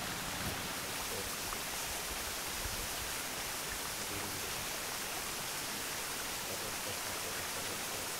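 Steady, even rush of a waterfall and stream running nearby.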